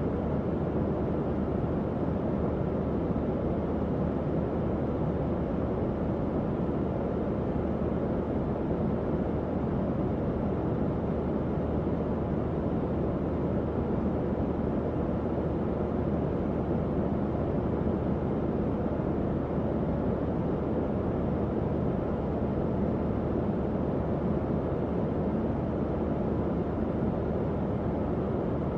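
Tower fan running steadily: an even, low-pitched whoosh of moving air with a faint motor hum beneath, unchanging throughout.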